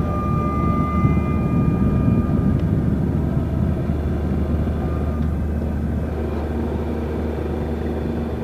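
Yamaha Jupiter Z's single-cylinder four-stroke engine running steadily while the motorcycle is ridden along, with a thick rush of road and air noise.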